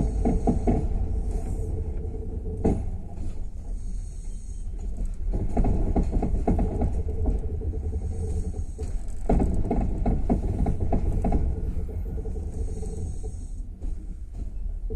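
Passenger train coach running along the track, heard from inside: a steady low rumble of wheels on rails, with bursts of clattering as the wheels cross rail joints and points, twice in the middle.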